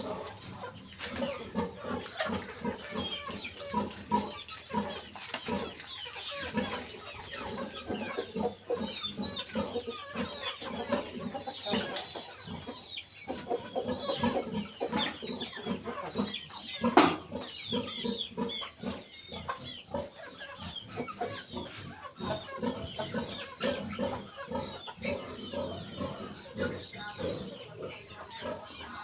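Chickens clucking and calling in a dense, continuous chorus of short calls, with a single sharp knock about two-thirds of the way through.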